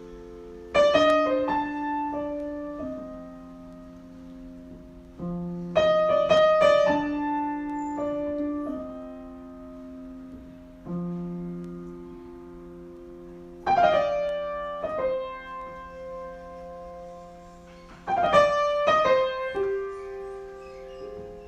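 Slow, improvised solo piano: four phrases of struck chords, each left ringing and dying away before the next.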